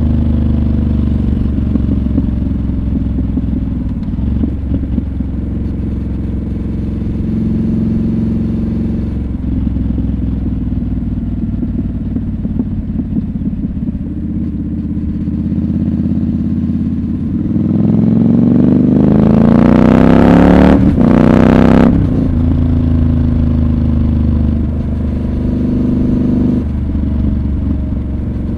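Triumph Scrambler 1200 XC's parallel-twin engine running steadily on the move. About two-thirds through it revs up with a rising pitch to its loudest, broken twice by short gaps, then settles back to a steady drone.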